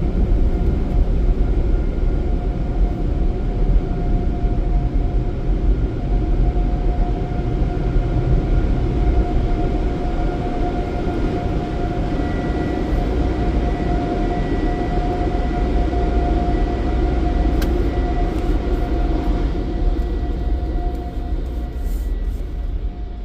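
Automatic tunnel car wash's air-dryer blowers running, heard from inside the car: a loud, steady rush of air with a steady whine, fading in the last few seconds as the car passes out of them.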